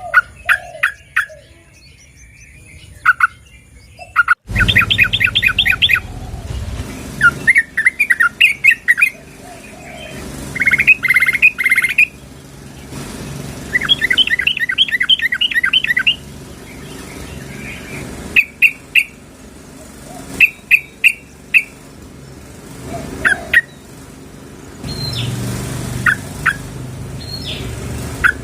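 Yellow-vented bulbul (trucukan) calling: quick, bubbling chattering runs of several notes each, then shorter groups of two or three clipped notes in the second half. The recording is billed as a female calling to a male.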